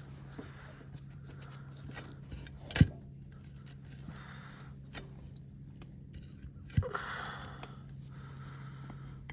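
Two sharp knocks about four seconds apart, from parts or tools being handled while a garden tractor wheel hub is refitted. The second knock is the louder and is followed by a short scrape, with a steady low hum underneath.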